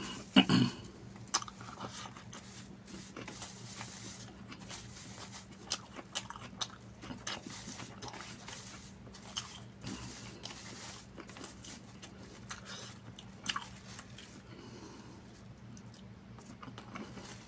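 Close-up eating sounds of chicken biryani eaten by hand: chewing and mouth clicks, with scattered light clicks and crackles as fingers pick at food on a plastic sheet. A louder cluster comes about half a second in, over a faint low steady hum.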